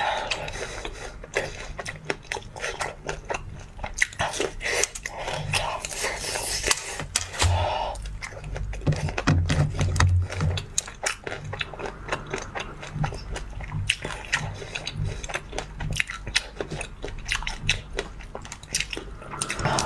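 Close-miked biting and chewing of crunchy coated pineapple pieces, with many sharp crunches running throughout.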